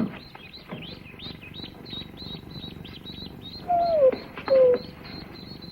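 Newly hatched ducklings peeping rapidly in short, high chirps, about five a second. About four seconds in, a dog gives two short falling whines.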